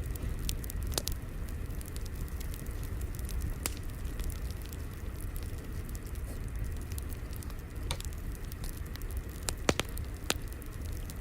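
Fire crackling: a steady low rumble of burning with scattered sharp pops and snaps, a couple of the loudest pops near the end.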